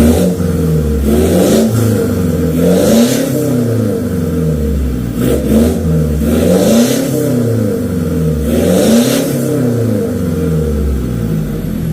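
Mitsubishi Pajero Sport engine revved through a full-system racing exhaust, the pitch climbing and falling back in three slow revs of a couple of seconds each.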